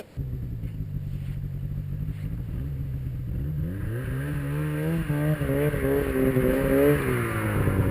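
Snowmobile engine running, then revving up about halfway through, its pitch wavering as it pulls, and easing off near the end.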